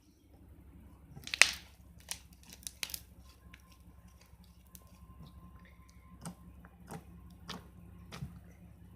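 Slime being squished, stretched and folded by hand, giving sharp clicks and pops at irregular moments, the loudest about a second and a half in, over a faint low hum.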